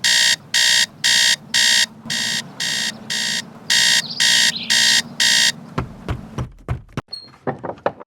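Electronic alarm clock beeping in short, even pulses, about two a second, stopping about five and a half seconds in; a few knocks and clicks follow.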